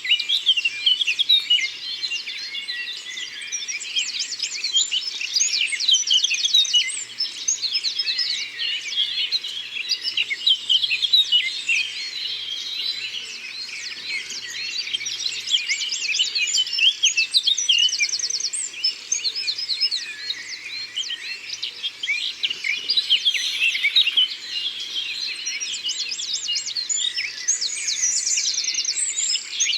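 Many songbirds singing at once: a dense, continuous chorus of overlapping chirps and whistles, with quick rattling trills breaking through several times.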